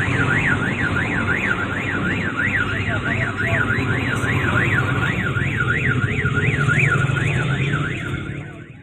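Electronic warbling alarm, its pitch sweeping up and down about two and a half times a second, over a low steady rumble; it cuts off abruptly near the end.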